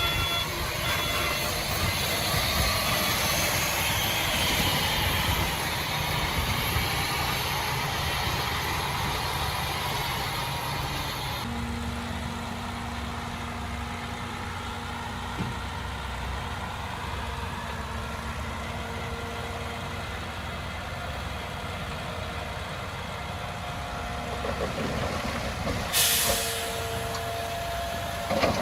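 Heavy earthmoving machinery running, its diesel engine noise shifting abruptly about twelve seconds in to a steadier, lower hum with a held tone. A short hiss of air sounds near the end.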